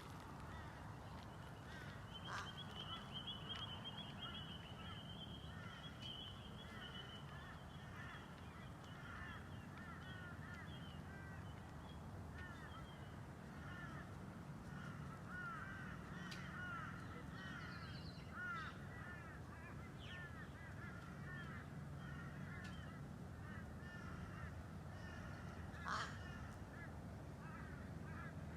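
Birds calling: many short repeated chirps, with a higher trill lasting several seconds near the start, over a low steady rumble. A single sharp click comes near the end.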